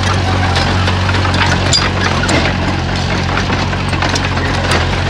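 Komatsu bulldozer's diesel engine running steadily, with a scatter of short sharp clicks and cracks over it.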